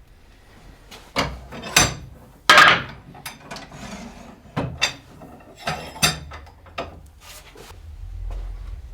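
Workshop handling noises: a series of knocks and clicks, with a short scrape about two and a half seconds in that is the loudest sound.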